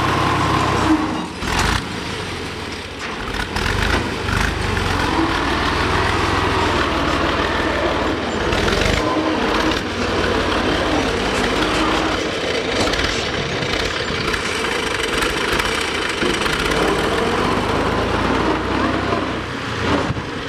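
A motor running steadily with a constant low hum, broken by a few sharp knocks.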